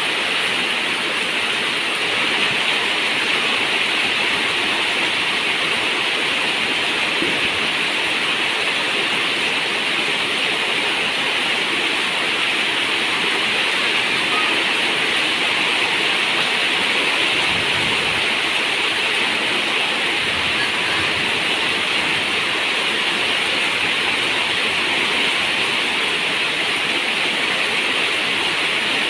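Steady, even rush of heavy rain together with running river water, with no single drops or drips standing out.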